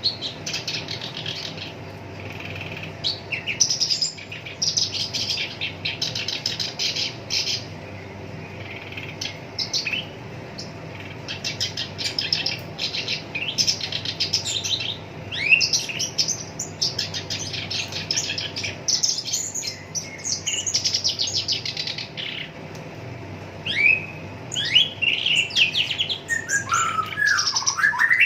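Black-browed reed warbler singing a fast, rough chattering song: phrases of rapid repeated notes and rattling trills separated by short pauses, with a few lower, downward-sliding notes near the end.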